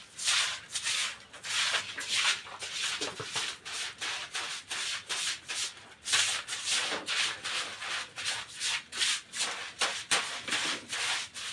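A stiff brush scrubbing a wet floor with detergent, in rapid even strokes about three a second.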